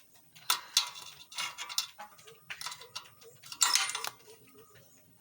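Metal tools and parts clinking and rattling as the bolts and washers of an exhaust silencer are fitted, in several short clusters: the loudest about half a second in and near four seconds in.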